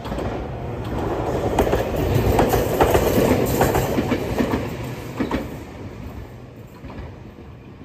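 A Meitetsu electric commuter train passing close by. The rumble builds, the wheels clack over the rail joints as the cars go past in the middle, and then it fades as the train moves away.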